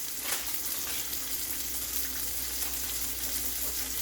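Curry-seasoned bird meat sizzling steadily as it browns in hot oil in a pot, the Jamaican 'bunjo' stage of pre-cooking the meat before the coconut milk goes in. A short sharper sound comes about a third of a second in.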